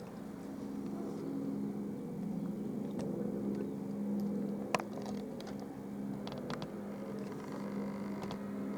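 Airbus H175 helicopter in flight, a steady drone holding one pitch. A sharp click just before the middle.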